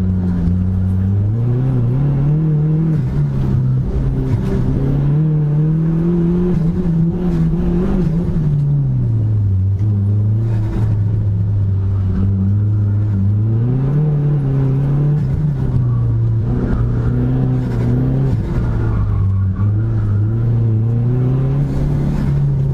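Dodge Neon SRT-4's turbocharged 2.4-litre four-cylinder engine driven hard through an autocross course. Its pitch climbs and falls again and again as the driver gets on and off the throttle.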